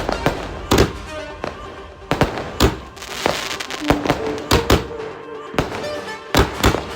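A 60-shot aerial firework cake, the Asok Sparklers Vivah Utsav, firing: about a dozen sharp bangs at uneven intervals, some in quick pairs.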